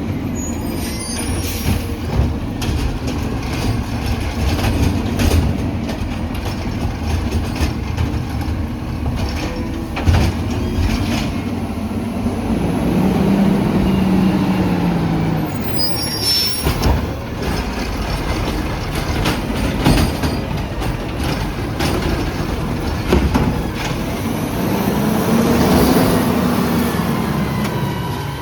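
Automated side-loader garbage truck working its route: the engine revs up and down twice to power the hydraulic arm, with bangs and knocks as carts are lifted and dumped into the hopper, and short air-brake hisses as it stops and moves on.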